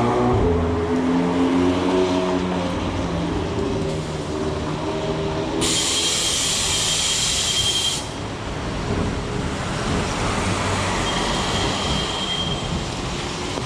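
Heavy rain with a large vehicle passing close by, its motor tone sliding up and down in pitch. About halfway through, a sudden loud hiss lasts about two seconds and cuts off sharply.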